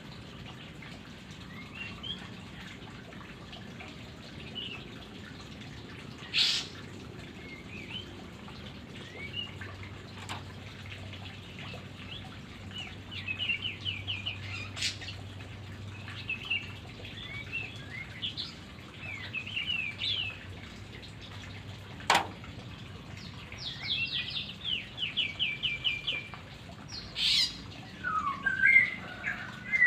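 White-rumped shama (murai batu) singing in short phrases of chirps, whistled notes and fast rattling trills, growing louder and busier near the end. A few sharp clicks sound between the phrases.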